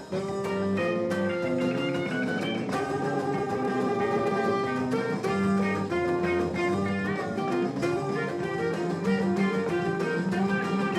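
Rock band playing an instrumental passage with no singing, electric and acoustic guitars to the fore over bass and drums, a melodic line moving in held, stepping notes.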